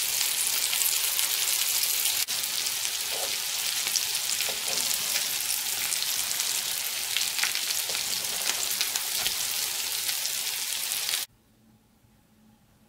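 Cabbage patties frying in oil and melted butter in a pan: a dense, steady sizzle with scattered crackles, which cuts off suddenly near the end.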